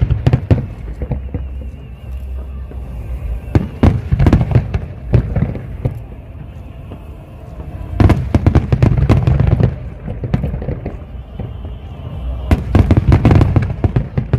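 Aerial fireworks bursting in volleys: four clusters of sharp bangs and crackles a few seconds apart, over a steady low rumble, with music in the background.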